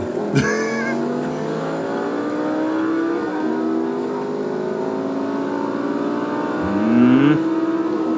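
Car engines at full throttle in a highway roll race, several engine notes climbing slowly and steadily in pitch. A short, sharper rising rev near the end is the loudest moment.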